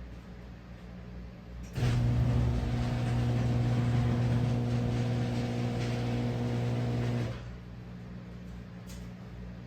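An electric garage door opener motor runs with a steady, even-pitched hum for about five and a half seconds, starting and stopping abruptly, over a faint background hum.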